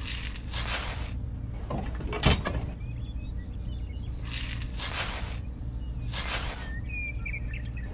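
Small plastic frames pushed and set into sand, making several short gritty scraping rustles with a sharp click a couple of seconds in, over a steady low hum.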